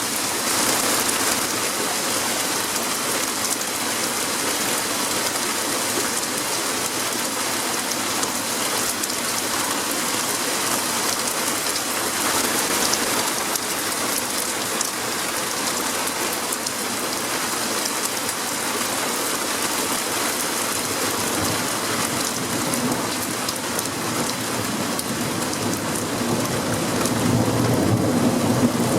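Heavy rain falling steadily during a thunderstorm, with a rumble of thunder building near the end.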